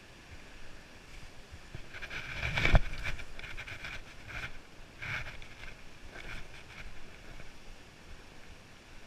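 Hiker's footsteps and gear rustling, a few steps about a second apart, with a loud thump of a footfall about three seconds in, over low rumbling wind noise on the camera microphone.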